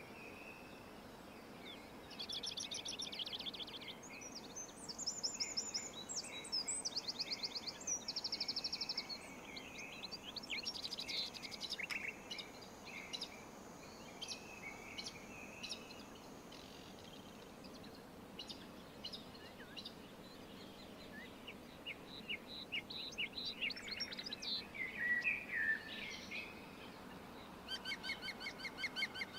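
Several small songbirds chirping and trilling, with rapid runs of notes coming in clusters, over a steady faint background hiss.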